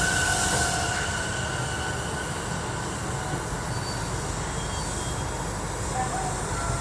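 Sotetsu 11000 series electric train running on the rails: a steady rumble with a thin high squeal that fades about a second in.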